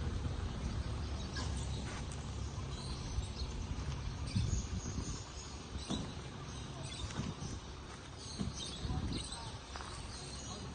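Outdoor ambience: a steady low rumble with scattered faint bird chirps and occasional light taps and rustles.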